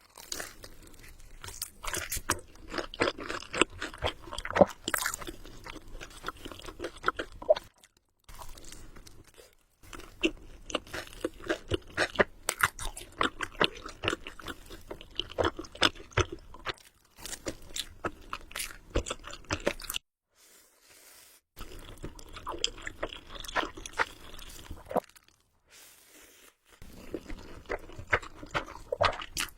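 Close-miked eating sounds: a person chewing, with many sharp crunches and wet mouth clicks. It is broken by a few short silences.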